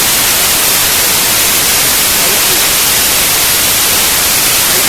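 Loud, steady static-like hiss, strongest in the high range, with no engine note, rhythm or separate knocks in it.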